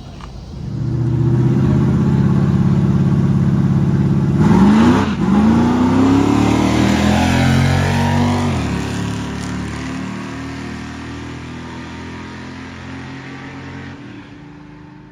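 A car engine held at high revs, then launching and accelerating hard with rising pitch and a gear change, before fading steadily as it pulls away down the drag strip.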